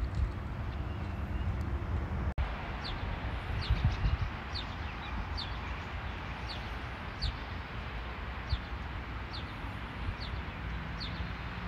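A small bird repeating a short, high, falling chirp about once or twice a second over a steady outdoor hiss. A low rumble fills the first couple of seconds.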